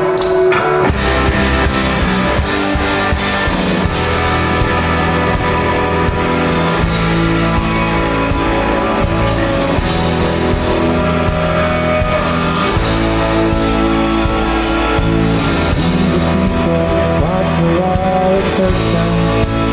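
Rock band playing live: an instrumental passage of electric guitars over a drum kit, with the full band coming in about a second in.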